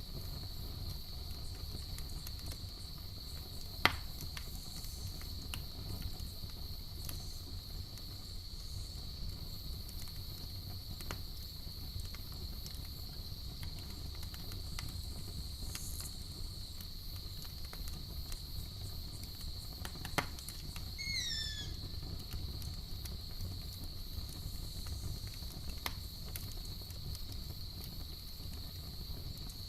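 Crickets trilling steadily over the low rumble of a campfire, with a few sharp pops from the fire, the loudest about 4 s and 20 s in. About 21 s in comes a quick run of four falling chirps.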